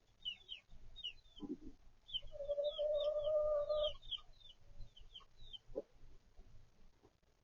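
Backyard chicks peeping in short, high, falling chirps, with a few low hen clucks and one long, steady chicken call lasting under two seconds from about two seconds in.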